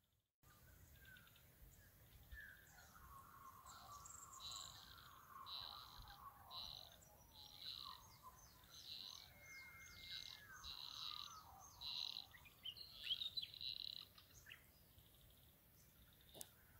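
Faint birdsong: one bird repeats a short, high note about once a second, over a lower, warbling song from another bird that fades out about two-thirds of the way through.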